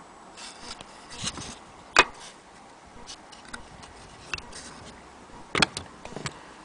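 Scattered sharp clicks and knocks from an antique Willcox & Gibbs sewing machine being handled, the loudest single click about two seconds in and a quick cluster of several near the end.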